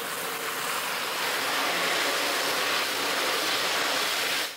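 Wet chopped coriander and mint leaves hitting hot oil and frying onions in a large biryani pot, sizzling as a loud, steady hiss. The hiss cuts off suddenly near the end.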